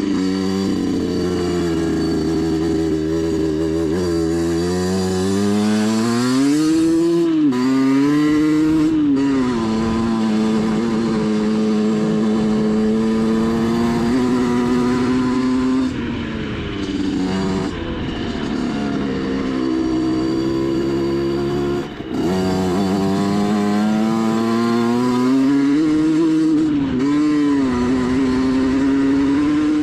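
Rieju MRT 50 two-stroke 50cc dirt bike engine running hard off-road, its pitch climbing and falling as the throttle is opened and closed. It briefly drops off the throttle about a third of the way in and again past the middle, then revs back up.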